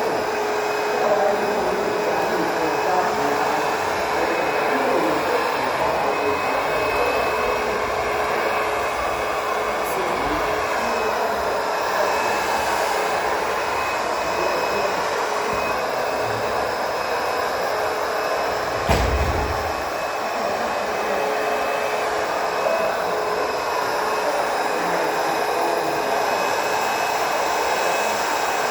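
ProTeam Super CoachVac 10-quart backpack vacuum running steadily while vacuuming: a rushing-air noise with a steady whine. A single knock comes about two-thirds of the way through.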